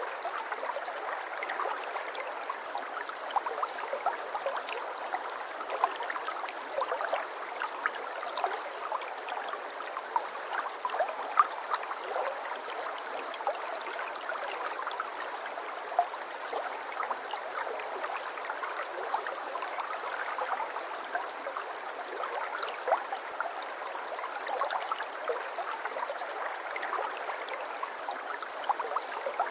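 Shallow babbling brook: water running and burbling over stones, a steady rush dotted with many small splashes and gurgles.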